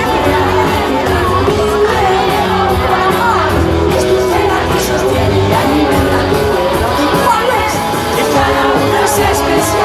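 Live concert music: a band playing and a lead singer, with the crowd singing along and shouting.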